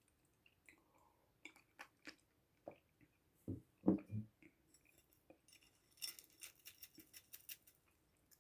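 Close-miked eating sounds: soft chewing and mouth clicks, a few heavier bites about halfway through, then a quick run of fine crackles lasting about two seconds near the end.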